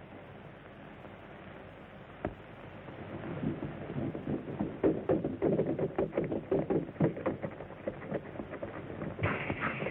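Quiet at first with a single click, then a quick irregular run of knocks and thumps for several seconds, and a steady hiss starting near the end.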